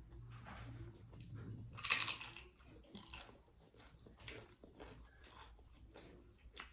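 Close-up eating sounds: chewing and crunching at the table, with a louder crunch about two seconds in and another about a second later.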